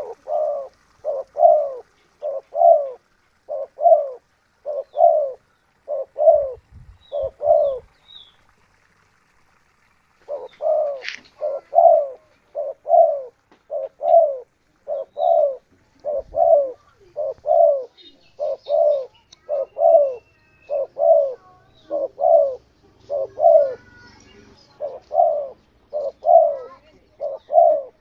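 Spotted dove (tekukur) cooing loudly and close, a long run of evenly spaced low coo notes at about one or two a second, with a break of about two seconds a third of the way in. A few faint high chirps from other birds sound over it.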